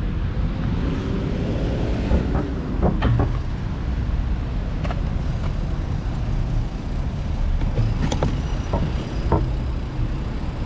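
Road traffic: a steady low rumble with a motor vehicle passing, its engine pitch sliding about a second or two in, and a few scattered clicks and knocks.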